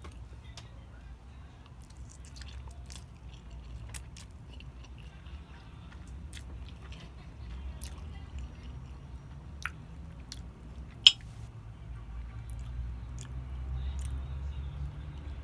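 A person chewing food close to the microphone, with wet mouth sounds and scattered sharp clicks, the loudest about eleven seconds in. A steady low hum runs underneath.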